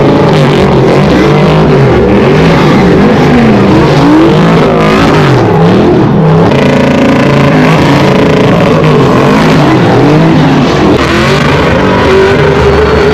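Loud vehicle engines revving up and down over and over, several pitches overlapping, with one held at a steady high rev near the end.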